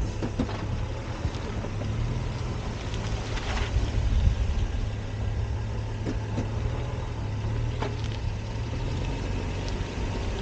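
Steady low hum of a Honda Accord Coupe's V6 engine and road noise, picked up by a camera mounted outside at the back of the car.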